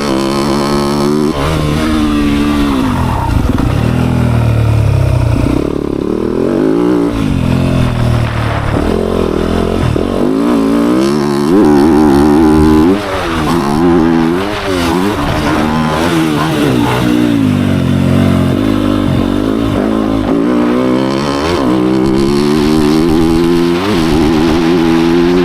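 Dirt bike engine ridden hard on a motocross track, its pitch climbing and dropping again and again as the throttle is opened and shut through the gears and corners.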